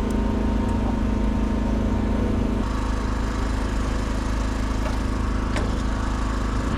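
An engine running steadily at idle, its pitch stepping up slightly about two and a half seconds in.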